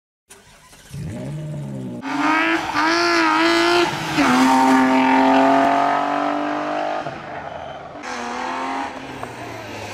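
Mercedes-Benz rally car's engine revving hard under acceleration, its pitch holding or climbing in each gear and dropping at the upshifts, several times.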